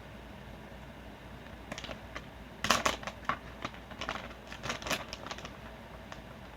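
Plastic jerky bag being opened, with a run of crinkling clicks starting a couple of seconds in.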